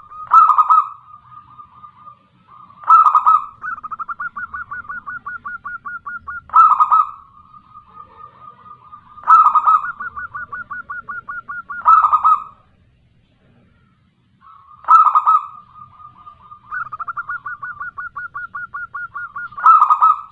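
Zebra dove (perkutut) cooing: a loud call about every three seconds, with fast, stuttering trills of short notes between them. Near the middle the calling drops out briefly.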